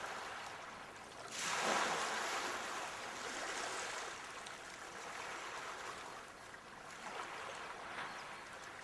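Sea waves washing on the shore: one wave surges in and breaks about a second and a half in, then slowly ebbs, with smaller washes later.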